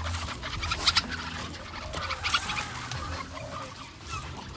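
Caged birds calling and clucking in short, scattered calls, with two sharp clicks, about one and two seconds in.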